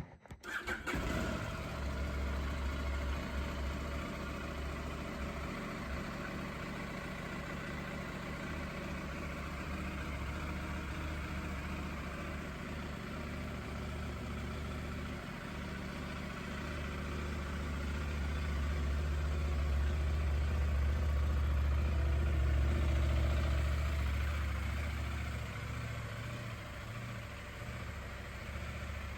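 KTM 890 Adventure R's parallel-twin engine starting and catching at once, then idling steadily. The engine note swells for a few seconds about two-thirds of the way through, then settles back to idle.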